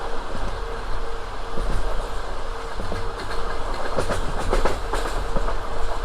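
Passenger train car's wheels rumbling and clattering rhythmically over the rail joints at running speed, with a steady hum underneath. The clatter grows sharper and busier about four seconds in.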